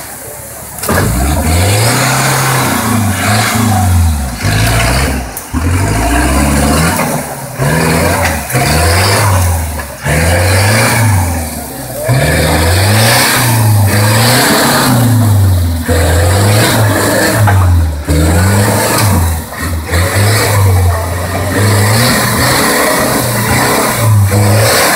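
Competition off-road 4x4 engine revved hard again and again, its note rising and falling every second or two as the vehicle claws up a rocky stream bed. The rush and splash of the stream's water runs beneath it.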